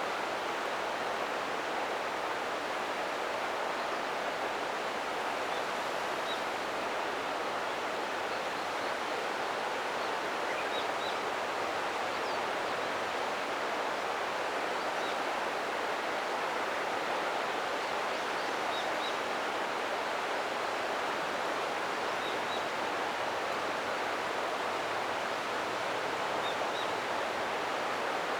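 Ōta River water rushing steadily, an even unbroken wash. A few faint high chirps sound now and then over it.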